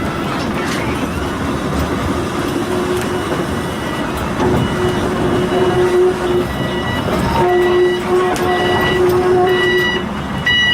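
Volk's Electric Railway car running on its track, a continuous rumble with a steady hum. From about halfway there is a series of short, repeated high-pitched tones.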